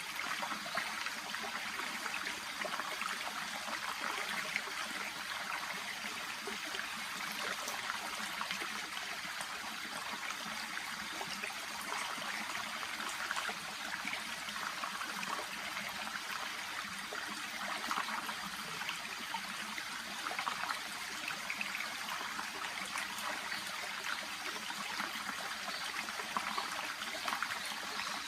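A shallow brook babbling steadily, a continuous rush of water flecked with small trickles and splashes.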